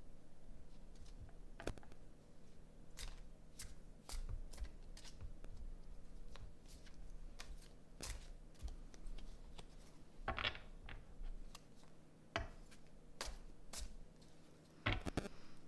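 Tarot cards being handled and shuffled: irregular snaps and taps of card stock, with a longer slide or rustle about ten seconds in.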